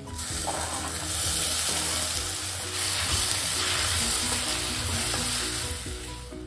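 Chopped tomatoes hitting hot oil and onions in a stainless-steel wok, sizzling, then stirred with a wooden spatula. The sizzle swells about half a second in and dies down near the end.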